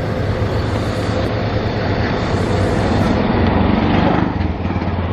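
Small engine of a tuk-tuk (auto-rickshaw) running with a steady hum, pulling harder for a moment about three to four seconds in.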